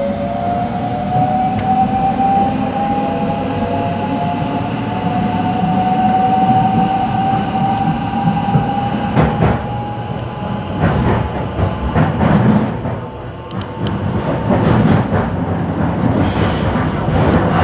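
Electric commuter train pulling away, heard from inside the carriage: the traction motors whine in several tones that rise steadily in pitch as it accelerates over the first ten seconds or so. After that the wheels clack over rail joints and points as it gathers speed.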